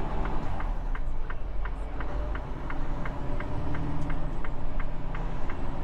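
Inside a semi truck's cab: the diesel engine runs with a low rumble while the turn signal clicks steadily, about three clicks a second.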